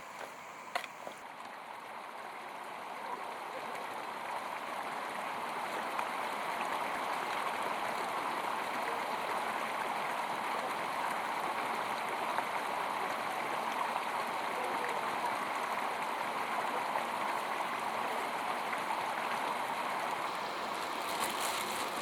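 Steady rushing of flowing water, like a stream, growing louder over the first few seconds and then holding even.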